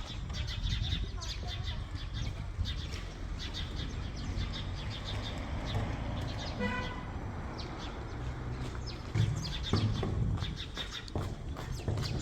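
Small birds chirping in quick short notes over a steady low rumble, with one brief pitched call about two-thirds of the way through.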